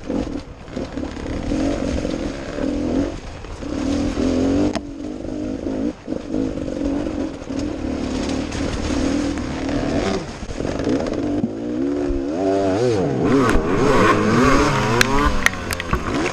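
Enduro dirt bike engine running under the rider, the throttle worked up and down, with rapid revving rises and falls in the second half. Sharp knocks and rattles of the bike over rough ground near the end.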